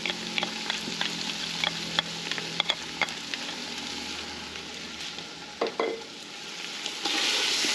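Sofrito of onion, chile and celery sizzling in a large aluminium pot as minced garlic is added. A metal spoon clicks against the bowl and pot several times in the first few seconds, and the sizzle grows louder near the end.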